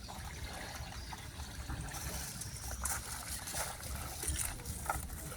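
Small lake waves lapping and trickling at the shoreline, a steady gentle water sound.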